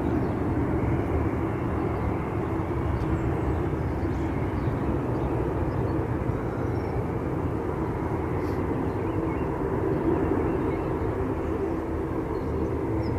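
Jet aircraft engine noise: a steady, unchanging drone with a faint hum running through it.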